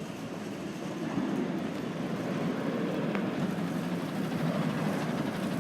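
Daewoo BS110CN bus running on its Doosan GE12Ti turbocharged natural-gas engine: a steady low drone that grows a little louder about a second in.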